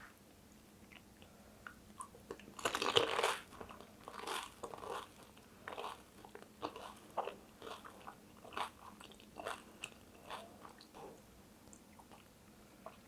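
Eating pani puri: one loud crunch of the crisp, hollow puri shell breaking about two seconds in, then chewing with a run of smaller crunches that die away near the end.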